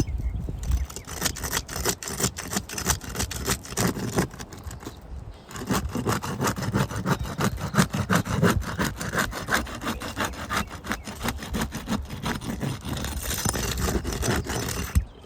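Rough, repeated back-and-forth scraping and rubbing on asphalt roof shingles as the shingles are worked loose, with a short pause about five seconds in.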